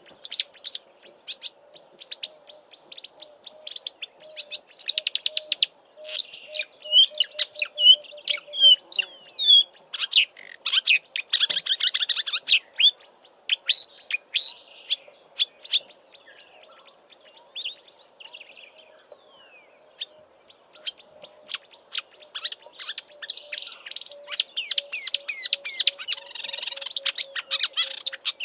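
Marsh warbler singing a fast, unbroken jumble of high chattering, trilled and whistled phrases, much of it mimicry of southern African birds. Beneath it, a faint series of low notes runs quicker and quicker twice, once in the first half and again near the end.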